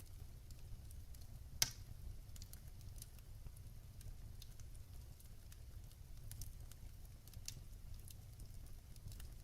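Wood fire in a fireplace crackling, with scattered small crackles and one sharp, loud pop about one and a half seconds in, over a low steady rumble.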